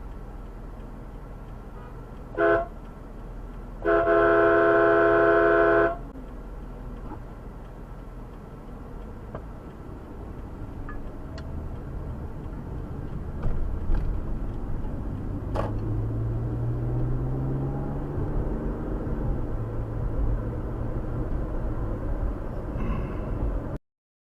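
Car horn: a short toot, then a held blast of about two seconds, over steady road and engine noise. Later an engine note rises in pitch.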